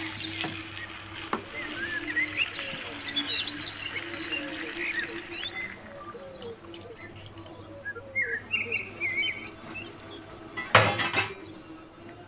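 Small birds chirping in short, quick rising and falling notes over a steady low hum, with one brief loud burst of noise near the end.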